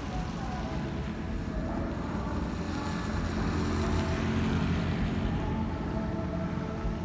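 Steady low rumble of city traffic, swelling a little about halfway through, with faint tones in the background.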